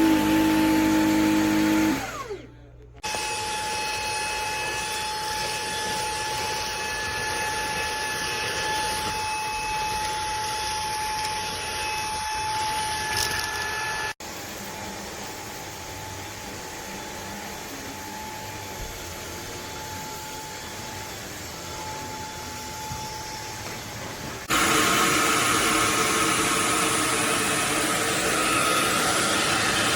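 Eureka cordless stick vacuum's motor running with a steady whine. It cuts out for about a second a couple of seconds in, drops in level about halfway through, and runs louder again near the end.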